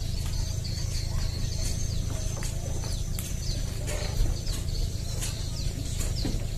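Small birds chirping repeatedly: short, high, falling notes a few times a second over a steady low rumble.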